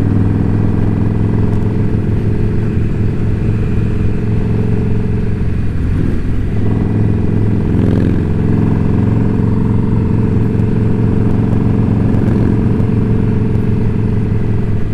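Indian Scout Bobber's V-twin engine running at a steady cruise under way, heard through a helmet microphone, with a brief change in engine note around the middle.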